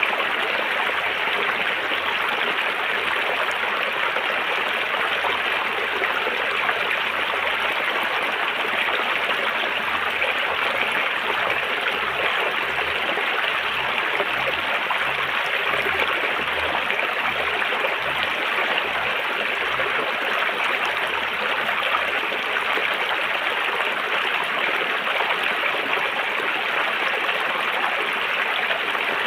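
River water flowing and rushing in a steady, unbroken stream.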